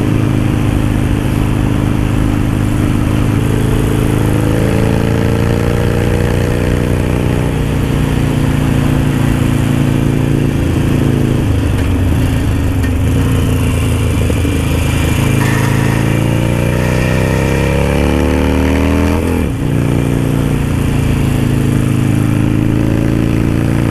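Harley-Davidson Sportster's V-twin engine running under way through an aftermarket Dan Moto Highwayman 2-into-1 exhaust. Its pitch steps up a few seconds in, climbs steadily as the bike accelerates about two-thirds of the way through, then drops sharply at an upshift and settles.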